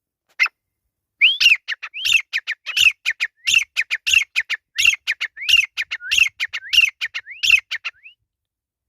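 Grey francolin (desi teetar) calling: one short note, then from about a second in a fast, loud run of repeated phrases, each a rising whistle followed by quick clipped notes, about one phrase every 0.7 seconds, stopping a little before the end.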